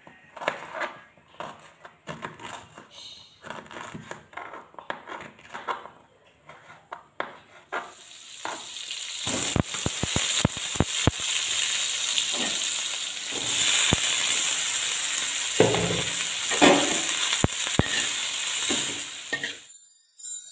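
Food being stirred and handled in a pan, with scattered utensil clicks and knocks, then frying in hot oil: a loud sizzle builds from about eight seconds in, with sharp utensil knocks over it, and cuts off suddenly near the end.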